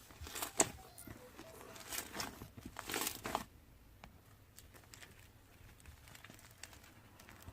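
Soft rustling and crinkling handling noises for the first few seconds, then faint scattered clicks.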